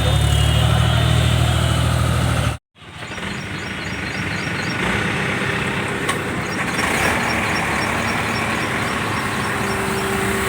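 Heavy diesel machinery engines running steadily, a low steady drone at first. The sound cuts out abruptly about two and a half seconds in and resumes with a rougher, noisier engine sound.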